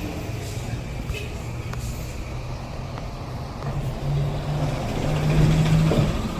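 A vehicle engine running as a steady low hum, growing louder over the last couple of seconds.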